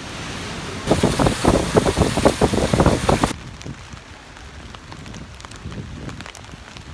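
Heavy rain pattering, loud and dense for a couple of seconds, then cutting off suddenly to a lighter, steady rain with scattered drops tapping on an umbrella overhead.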